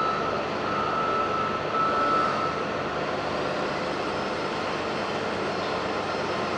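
A repaired vehicle running steadily. A faint, broken beeping tone, like a reversing alarm, fades out over the first two or three seconds.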